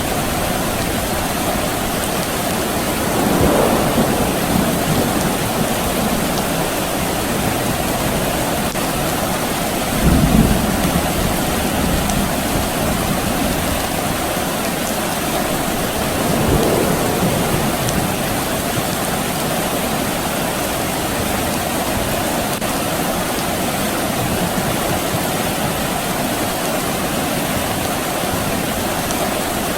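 Steady rain falling. Low rumbles of distant thunder swell up three times: a few seconds in, about ten seconds in, and a little past the middle.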